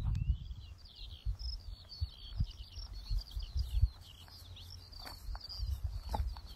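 Birdsong: a continuous, fast, high twittering warble, over gusts of wind rumbling on the microphone.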